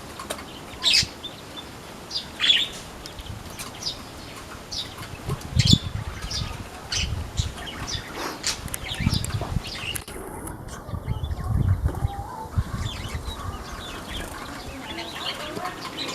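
Small aviary birds, among them newly added weaver birds, giving many short, sharp chirps. In the middle there are bursts of low fluttering, like wings flapping.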